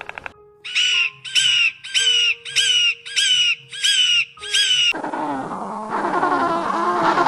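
A bird gives seven harsh calls in a row, about half a second apart, each ending in a downward slide. Then a crowd of many overlapping bird calls starts up.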